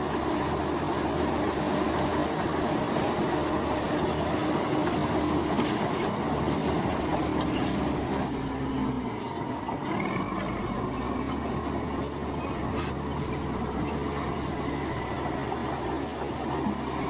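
Komatsu crawler bulldozer's diesel engine running steadily while its steel tracks clank and squeak, with a few sharp metallic clicks and a faint squeal about ten seconds in.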